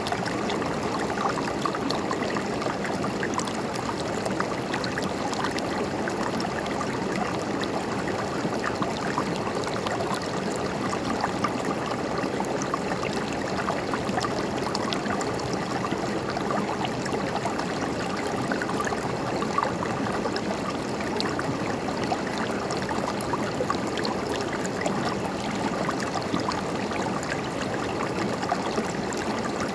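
River flowing: a steady rush of running water with small splashes and gurgles throughout.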